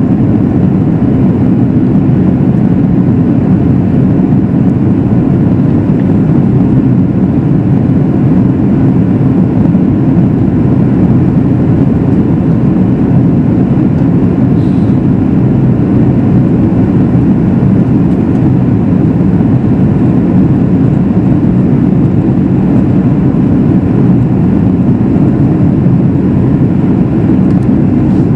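Steady cabin noise of a Boeing 737 MAX 8 jetliner in flight: a constant low rush of airflow and engine noise that does not change.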